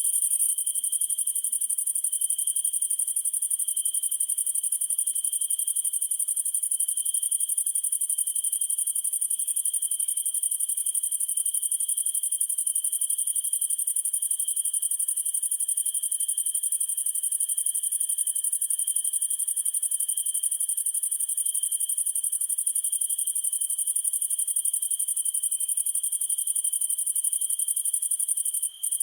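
Crickets chirping in a dense, steady chorus: a very high, fast trill on top, with a lower insect song that swells and fades slowly underneath. The sound drops out briefly near the end.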